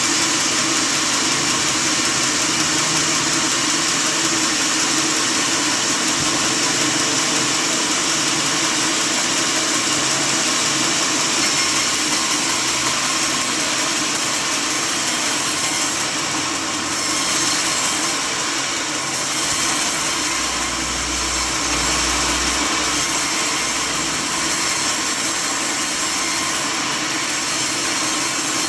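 Sawmill machinery running steadily with a continuous, hissing mechanical drone, with a brief low rumble joining in a little past the middle.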